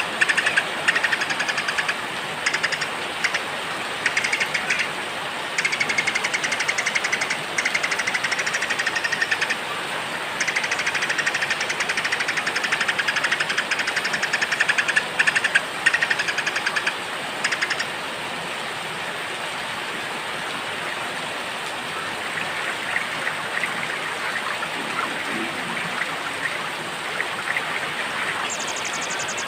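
Small songbirds singing rapid, pulsing trills in bursts over steady rain. The trills stop about eighteen seconds in, leaving the rain with a few faint calls, and a high trill starts again near the end.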